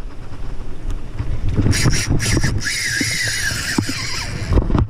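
Spinning reel's drag buzzing in a long whirr as a hooked shark pulls line against it, with a few clicks just before. Heavy wind rumbles on the microphone throughout.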